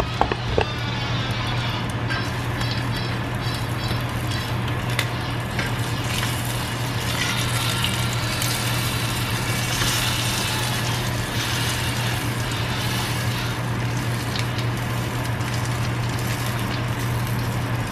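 Egg frying in a pan, a steady sizzle with crackling, over a constant low hum.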